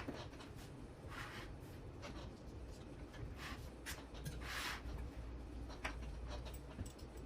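Small handling noises from bench work on parts and wiring: scattered light clicks and taps, with two short rustling scrapes, about a second in and again around four and a half seconds.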